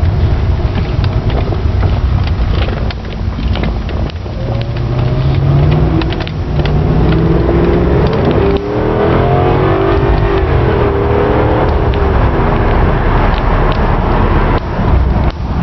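1997 Jaguar XJ8's V8 engine running through its stock exhaust. Its pitch climbs from about five seconds in, peaks near nine seconds, then falls back and settles.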